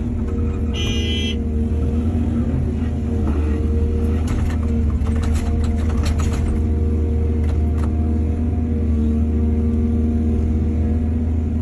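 Diesel excavator engine running steadily with a deep hum. A burst of clattering knocks comes from about four to eight seconds in, and a brief high tone sounds about a second in.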